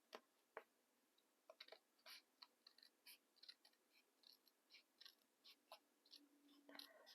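Faint, irregular snips of scissors cutting paper, about two or three a second.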